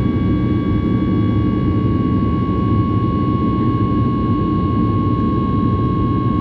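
Ryanair Boeing 737 jet engines heard from inside the passenger cabin: a steady loud rumble with a constant high whine above it.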